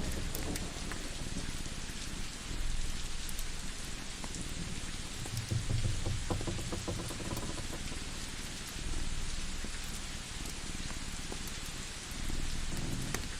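Steady rain falling, with low rumbles of thunder swelling up about the middle and again near the end, and a few faint crackles.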